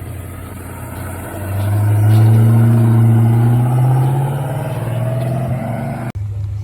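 A car's engine as it drives past, its note climbing slowly as it accelerates; the sound cuts off suddenly near the end.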